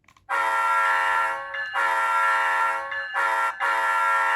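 Recorded multi-chime diesel locomotive air horn played by an ESU LokSound 5 sound decoder in a model locomotive. It sounds long, long, short, then begins a fourth long blast: the grade-crossing signal.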